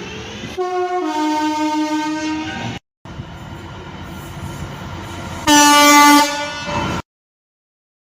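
Train horns in two short edited clips. A two-tone horn sounds for about two seconds, stepping down in pitch early on. After a cut there is steady train noise, then a louder, shorter two-tone blast near the end before the sound cuts off.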